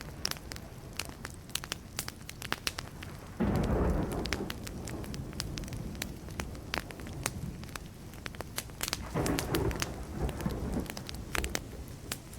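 Burning wood crackling and popping in a campfire, with thunder rumbling: a loud rumble breaks in suddenly about a third of the way through and fades slowly, and a second, weaker rumble comes near the end.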